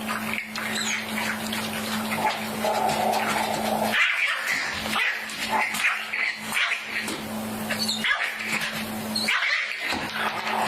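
Puppies making short high yips and whines amid many small clicks and scuffles, over a steady low hum in parts.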